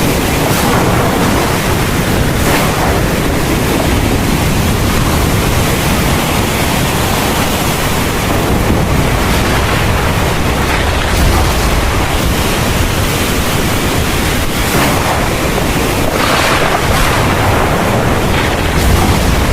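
Heavy rain pouring in a steady, dense hiss, with low rumbles of thunder swelling underneath now and then.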